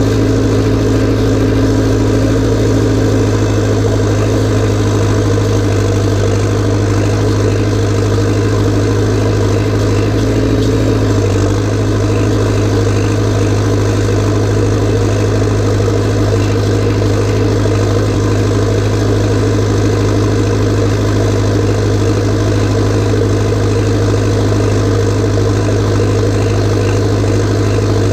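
Massey Ferguson 590T tractor's diesel engine, fitted with an Opico turbo and a straight pipe, running steadily and loud, with a slight change in note about eleven seconds in.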